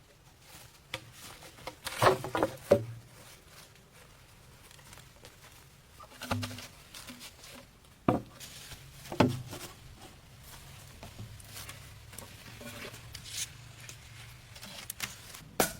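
Irregular knocks, taps and rustling of something being handled, with sharper knocks about two, six, eight and nine seconds in.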